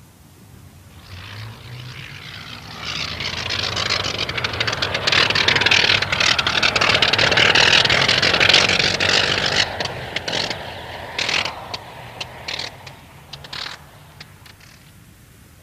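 A propeller aeroplane's engine flying past. The engine noise swells over several seconds, peaks, then fades away, with a few sharp pops as it recedes.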